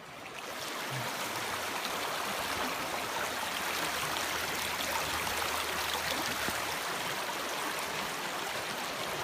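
Steady rushing of a shallow river with rapids close by, swelling over the first second and then holding even.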